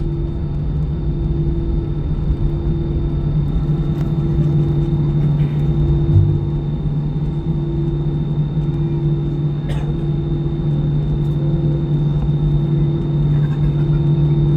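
Steady engine drone and low rumble of an Airbus A320-214's CFM56 engines, heard inside the passenger cabin. There is a constant low hum and a thin high whine, with a few faint clicks.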